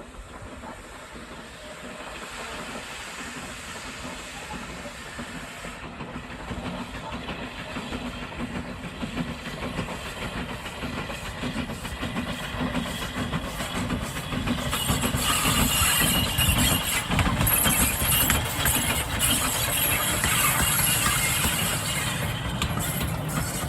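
Steam locomotive approaching, growing steadily louder, with a rumble and a strong hiss of steam.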